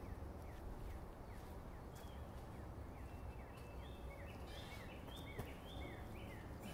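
A bird chirping outdoors: a quick run of short, slurred notes that grows busier after about three seconds, with a single soft knock about five seconds in.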